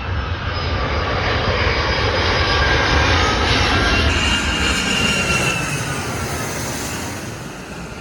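Boeing 757-300's twin Rolls-Royce RB211 turbofan engines as the jet flies past. The sound swells to a peak about three to five seconds in and then fades, with the engine whine falling in pitch as it goes by.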